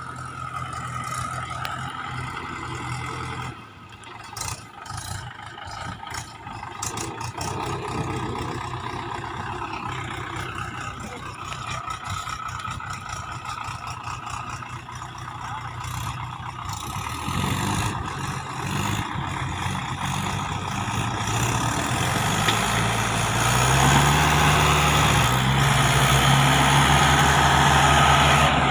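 Mahindra 575 tractor's four-cylinder diesel engine running steadily, then getting louder and revving higher over the last several seconds.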